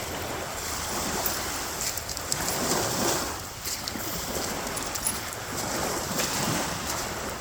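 Surf washing onto the shore, a steady rushing noise that swells and eases.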